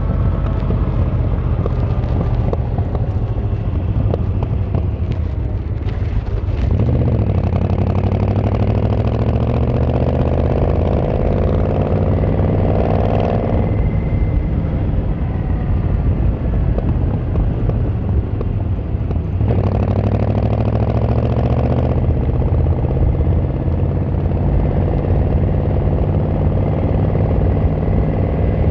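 Yamaha XVZ1300 Royal Star V4 cruiser's engine and exhaust under way. The engine pulls up through the revs with a rising pitch twice, and the note drops suddenly about halfway through, as at a gear change or throttle close.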